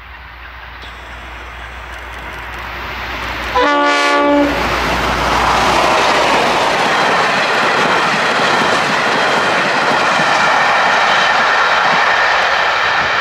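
V/Line N-class diesel-electric locomotive approaching with a steadily rising rumble. It sounds its horn in one short blast of just under a second, about three and a half seconds in. It then passes close by, loud and steady: the engine and wheels on rail with the train behind it.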